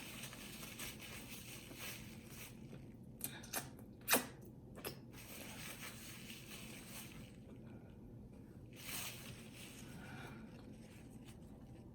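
Quiet eating sounds close to the microphone: soft chewing and mouth noises with a few short clicks, the loudest about four seconds in.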